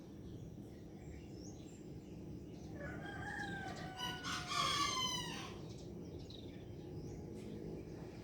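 A rooster crows once, about three seconds in: one multi-part crow lasting a couple of seconds, loudest in its final part.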